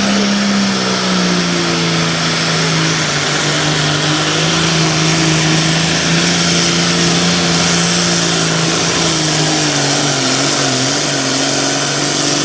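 Hot farm class pulling tractor's modified diesel engine running flat out under load as it drags the weight-transfer sled, a loud steady engine note that slowly sags in pitch as the load builds.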